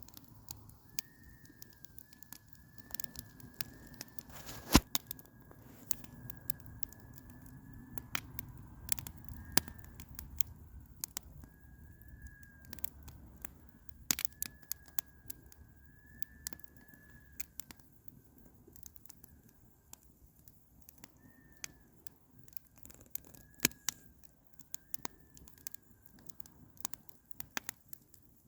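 Campfire crackling, with irregular sharp pops and snaps, one louder pop about five seconds in. A thin, high wavering whistle comes and goes throughout.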